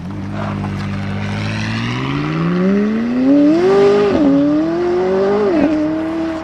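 A supercar's engine under hard acceleration from the meet. The revs climb, drop sharply at an upshift a little past the middle, climb again, then drop at a second gear change near the end.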